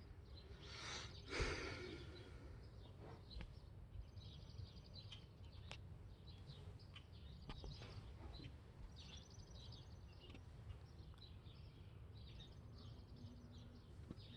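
Faint distant bird calls: several separate runs of rapid high, chattering notes. A louder breathy rush comes about a second in.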